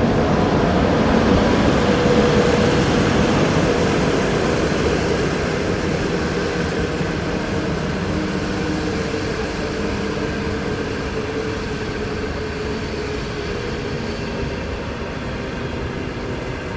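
A train running past on the track, loudest in the first few seconds and then slowly fading as it moves away, with a faint steady hum of tones over the rolling noise.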